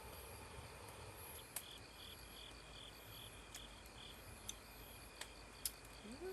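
Faint insects singing steadily, with a pulsed chirping in a regular series, about two or three a second, from about one and a half to four seconds in. A few sharp isolated ticks sound over it.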